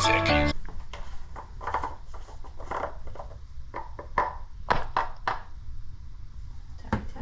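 Irregular clicks and knocks from tools or parts being handled, over a steady low hum. Music cuts off just at the start.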